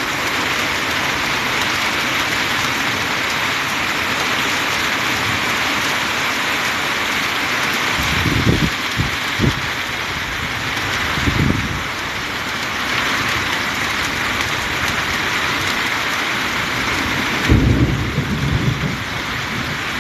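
Heavy rain falling in a storm, a steady dense hiss, with three short low rumbling surges, about eight seconds in, near the middle and near the end, from strong wind gusts or thunder.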